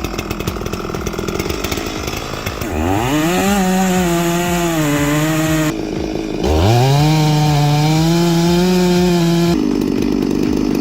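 Two-stroke chainsaw revved to full throttle twice. Each time the pitch climbs steeply and holds high for about three seconds; the first run breaks off about halfway through, and the second starts again a moment later.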